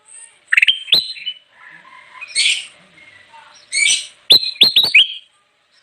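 A kutilang emas bulbul calling in short, bright chirps and harsher scratchy notes, ending in a quick run of four down-slurred chirps.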